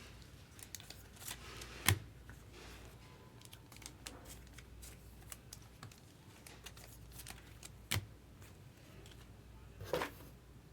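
Baseball trading cards being handled and flipped through: faint sliding and scratching of cards with sharp taps about two seconds in and again near eight seconds, and a louder scuff near the end.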